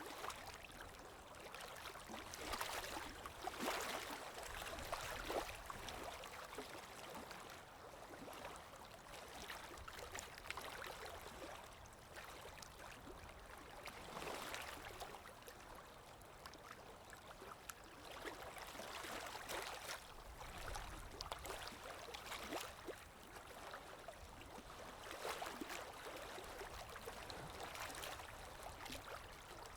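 Underwater water ambience: a steady rush of moving water with fine crackling, swelling and easing every few seconds.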